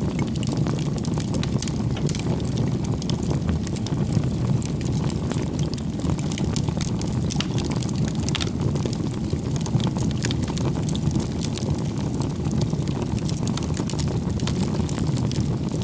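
Wood fire burning, a steady low rushing of flames with frequent small crackles and pops of the burning wood.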